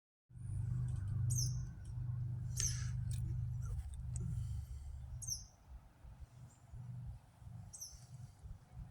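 A small bird giving short, very high, thin call notes, one every one to two seconds, over a low rumble that is loudest in the first half and fades about halfway through.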